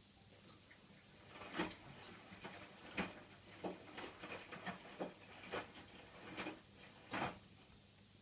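Hotpoint washing machine running mid-cycle: a low steady hum with irregular soft clicks and knocks.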